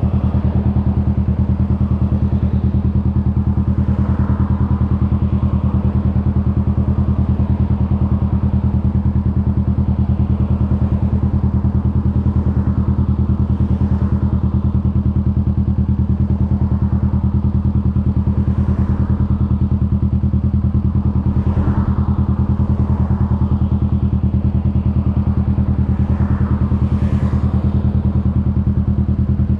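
Kawasaki Vulcan S 650's parallel-twin engine running steadily at an even speed, a constant low drone with no revving.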